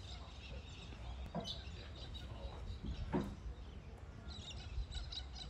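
Birds chirping in short bursts over a steady low rumble of wind on the microphone, with a faint distant voice about three seconds in.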